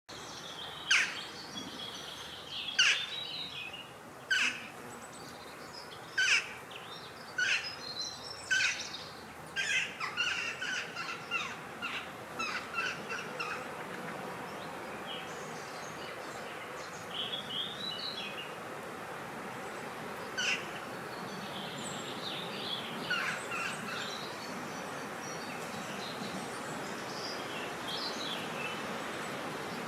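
Wild birds calling outdoors: sharp short calls about every second and a half at first, then a spell of busier chattering, then scattered calls. Underneath runs a steady rushing of wind that grows slightly louder in the second half.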